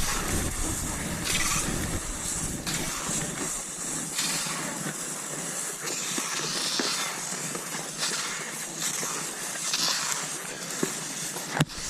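Cross-country skis sliding over snow, a swish with each stride about once a second, with one sharp click near the end.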